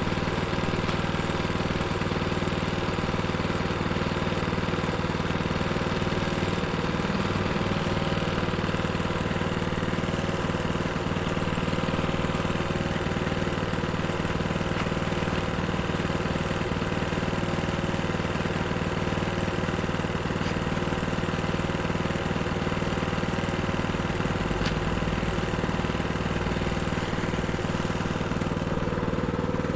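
Plate compactor's small engine idling steadily at an even, unchanging pitch.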